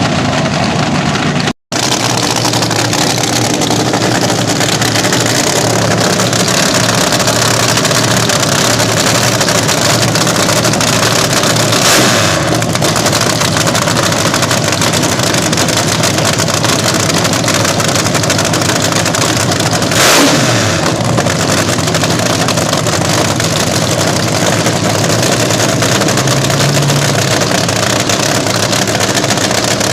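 Slingshot dragster engine running loudly and steadily, with two brief revs about 12 and 20 seconds in, the second falling away in pitch. The sound breaks off for an instant near the start.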